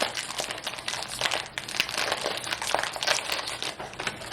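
Snack pouch crinkling as it is handled and opened, an irregular run of crackles and rustles.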